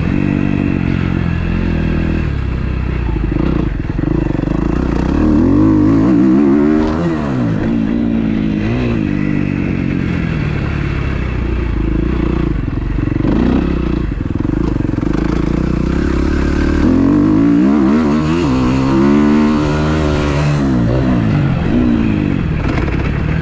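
Freshly rebuilt 2012 Kawasaki KX250F's single-cylinder four-stroke engine under riding load, revving up and dropping back several times as the bike accelerates and slows.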